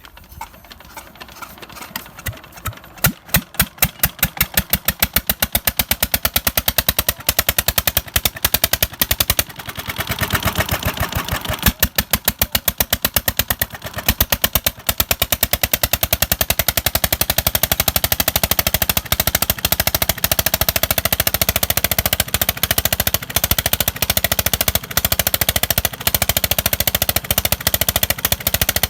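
Old diesel water-pump engine catching after a start: separate sharp exhaust bangs, sparse at first, quickly speed up into a fast, steady run of evenly spaced beats.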